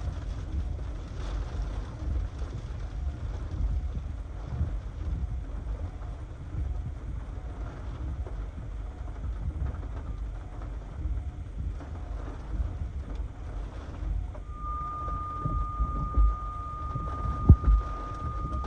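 Hurricane-force wind buffeting the microphone in a steady low rumble, with gusts. About two thirds of the way through, a steady high tone comes in and holds.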